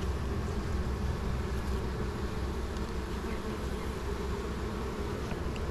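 Honeybees buzzing steadily around an open hive as its frames are inspected.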